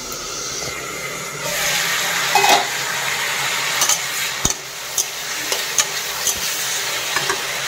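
Ivy gourd and potato frying in oil in a metal kadai: a steady sizzle that grows louder about a second and a half in, with scattered clicks and scrapes of a spatula against the pan as the vegetables are stirred.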